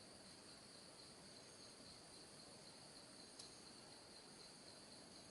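Faint, steady high-pitched chorus of insects in the forest, with one soft click about three and a half seconds in.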